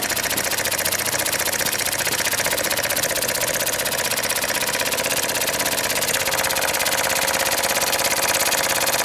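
Small homemade steam engine running fast under steam, its exhaust and moving parts beating in a rapid, even rhythm.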